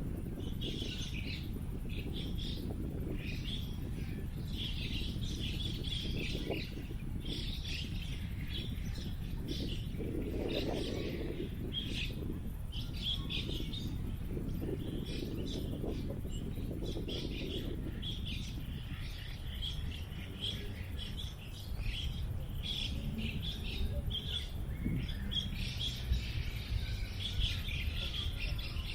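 Many small birds chirping and twittering in quick, overlapping calls, over a steady low rumble of wind.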